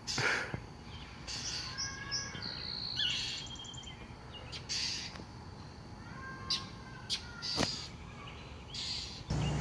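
A bird chirping in short, scattered calls, with a sharp click about three quarters of the way through.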